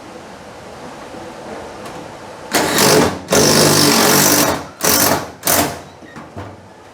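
Cordless power driver running in four bursts, a short one, a longer one of over a second, then two short ones, driving screws to fasten toolboxes down.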